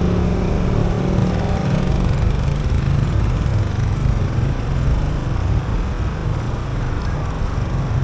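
Steady low rumble of vehicle engine and road noise, without distinct events.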